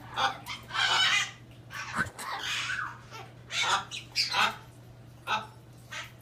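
Hyacinth macaw making a string of short, raspy, unusual calls, about a dozen spread irregularly, with a quieter gap a little after the middle.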